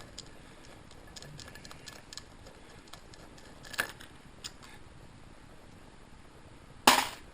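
Bolts being taken out of a small engine by hand: a few faint tool ticks and clicks, with one sharp clack near the end.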